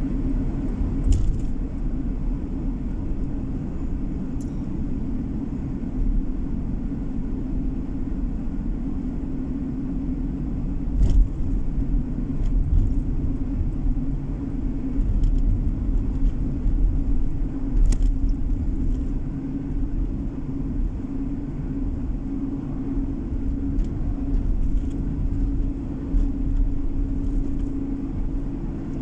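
Car driving along, heard from inside the cabin: a steady low hum of engine and tyres on the road, with a few brief clicks or rattles now and then.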